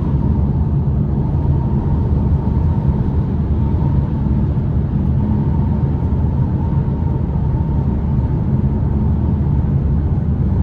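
Wind noise and road noise inside a Polestar 2 electric car's cabin at about 115 km/h, with a hard-shell rooftop tent on roof racks adding heavy wind rush. It is a steady, loud rushing with a faint constant high tone.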